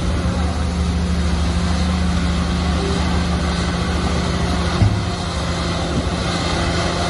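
Shantui bulldozer's diesel engine running steadily, with a brief thump about five seconds in.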